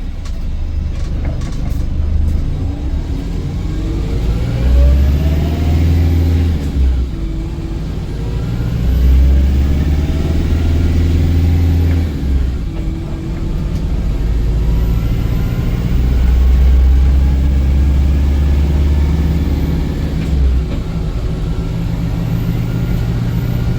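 Volvo B5LH diesel-electric hybrid bus heard from on board, accelerating hard three times, each pull with a rising whine and a heavy engine drone that holds for a few seconds.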